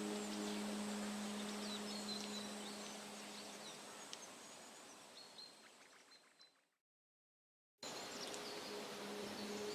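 Outdoor ambience with faint bird chirps under a soft, sustained drone of relaxing background music. The sound fades away, cuts to silence for about a second, then the birdsong ambience comes back with the drone swelling in again near the end.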